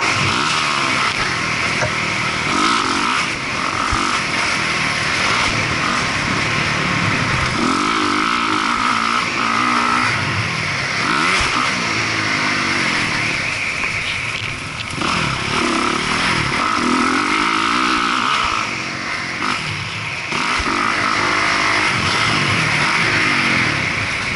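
Motocross dirt bike engine revving up and down again and again as the rider works the throttle and shifts gears, under a constant hiss.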